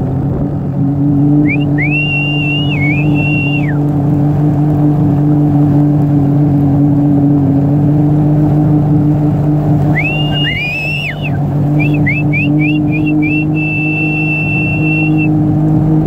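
Engine running at a steady speed throughout. Over it come several high whistling tones that rise, hold and fall away, with a quick run of short chirps about twelve seconds in.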